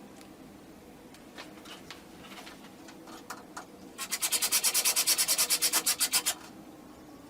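A few light clicks and knocks, then about four seconds in a loud, fast rasping rhythm of roughly ten strokes a second that lasts about two seconds, from hand work on the treadmill during assembly.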